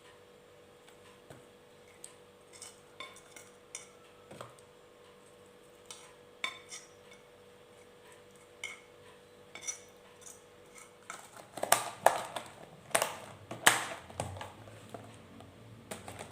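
Kitchen dishes and utensils clinking and tapping: scattered light clinks with a short ring, then a louder, denser clatter of handling near the end.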